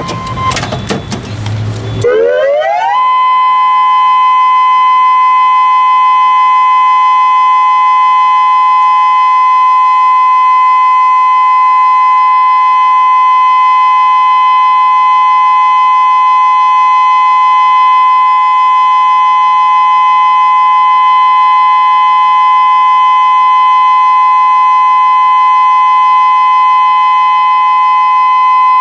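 Federal Signal Modulator 6024B electronic outdoor warning siren starting its steady-tone test. The spoken test announcement through its loudspeakers trails off, then about two seconds in the tone sweeps up and settles into one steady, unwavering pitch that holds.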